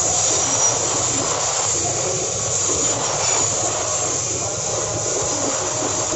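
Open steel coal wagons of a long Babaranjang freight train rolling past close by: a steady rumble and rattle of steel wheels on the rails.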